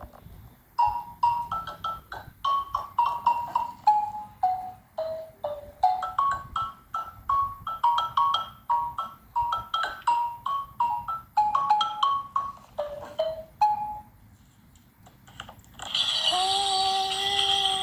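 Xylophone played with a mallet, single notes struck one after another, about three or four a second, in a wandering melody that steps up and down. The notes stop about fourteen seconds in, and near the end a steady held tone with a jingling hiss comes in.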